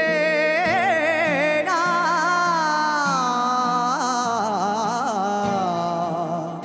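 A singer holding long wordless opening notes with wavering, ornamented pitch over a steady drone, the sung introduction of a Marathi folk song.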